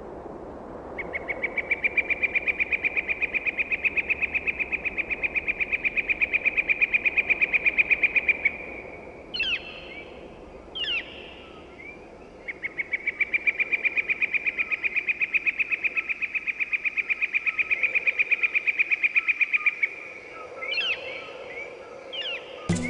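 Two long, steady, high trills of about seven seconds each, held at one pitch, with a few short downward-sweeping chirps between and after them: wildlife calling.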